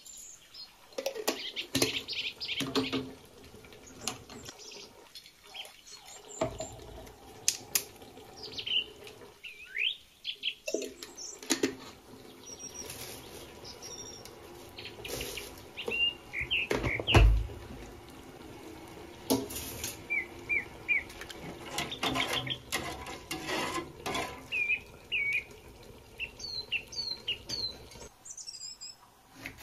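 Small birds chirping in short calls, over scattered knocks and clatters, with one louder thump a little past halfway.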